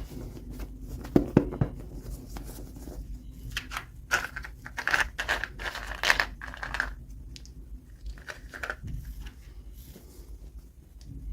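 Toy packaging being crinkled and torn open during an unboxing: irregular rustling and tearing, with two sharp clicks about a second in and a denser stretch of tearing in the middle.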